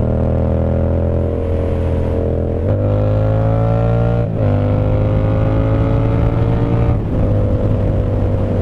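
Yamaha MT-07's parallel-twin engine through an un-baffled SC Project CRT full exhaust system, pulling under acceleration while riding. The engine note climbs steadily and drops briefly at three gear changes, about three, four and seven seconds in.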